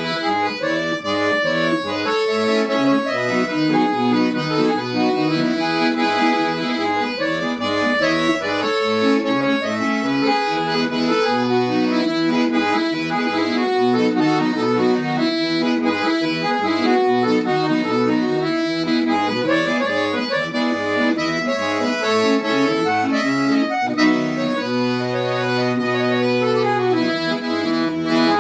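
Accordion-led traditional music, a busy melody over a moving bass line.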